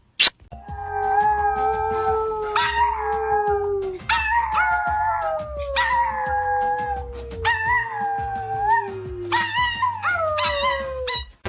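Dogs howling together in long, overlapping drawn-out howls, one voice sliding slowly downward in pitch. There is a short sharp click at the very start.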